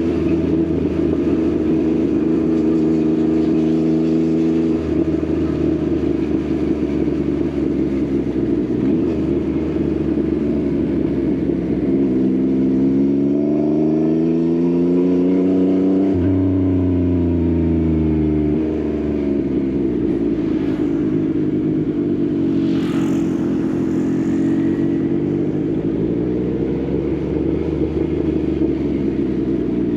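Yamaha XSR900's inline-three engine through an Akrapovič exhaust, running at steady cruise. About halfway through it rises in pitch for a few seconds under throttle, then drops off suddenly and settles back to a steady note.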